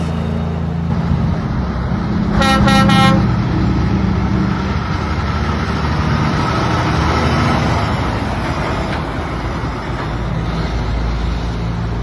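Truck engine running steadily, with a short horn toot about two and a half seconds in.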